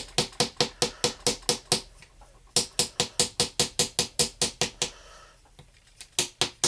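Small hammer tapping a chisel into a plaster dig block, quick even knocks about five a second with a short ring, in three bursts separated by brief pauses.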